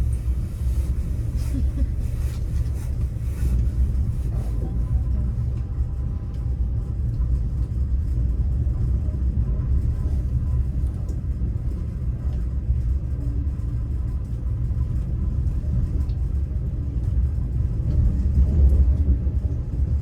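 Passenger train running steadily on the rails, heard from inside the carriage: an even low rumble, with a few faint clicks in the first few seconds.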